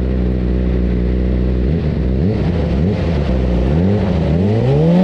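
2008 Yamaha R6's inline-four engine held at high revs on the starting grid, blipping up and down, then climbing steadily in pitch near the end as the bike launches off the line.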